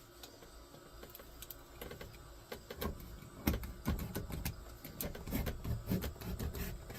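Irregular light clicks and knocks from hand work on wood, sparse at first and busier from about halfway through.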